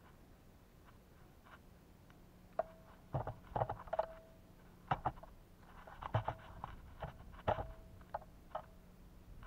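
Birds pecking and landing on a feeder close to the microphone: irregular sharp taps and knocks in quick clusters, several leaving a short ringing tone.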